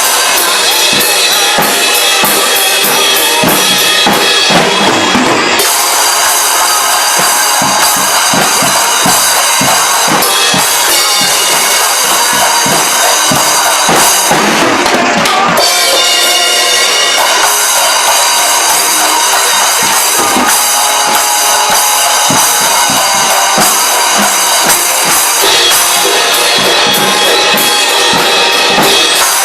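Drum kit played along to a full-band rock song: kick, snare and cymbals over the song's recording.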